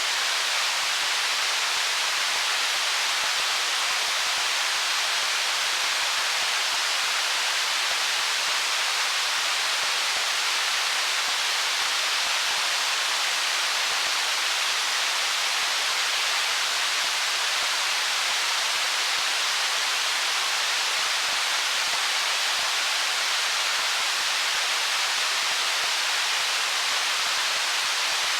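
A stream flowing over stones: a steady, even rush of water that does not change.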